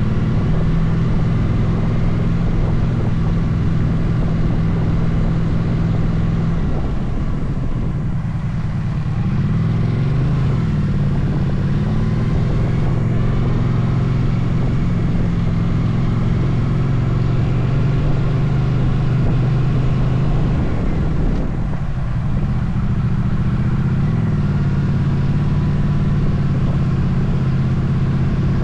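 Motorcycle engine running at a steady cruise, with a broad rush of road and wind noise. Twice, about a quarter of the way in and again about three quarters through, the engine note drops briefly and then picks back up, as with a gear change or easing off the throttle.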